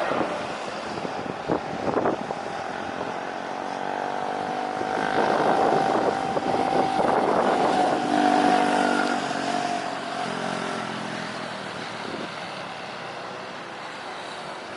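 A motor vehicle's engine passing, swelling for several seconds and then fading away. A few sharp knocks come in the first two seconds.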